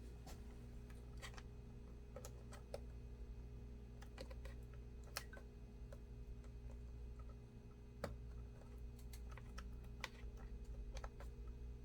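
Scattered small clicks and taps of hands working inside an opened laptop, plastic parts and connectors being handled and seated, over a steady low hum.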